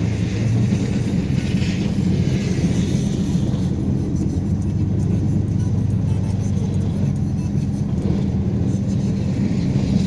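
Engine of a snowplowing vehicle running steadily, with music playing over it.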